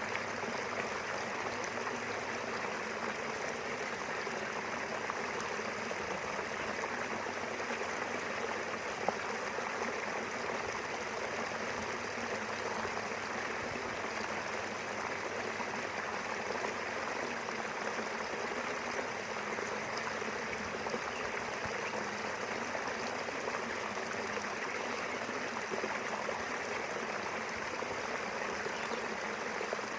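Small river flowing steadily between rice fields, a continuous even rush of running water.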